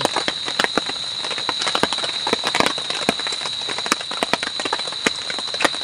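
Chili frying in hot oil in a pan, with dense, irregular crackling and popping. A steady high-pitched tone runs behind it.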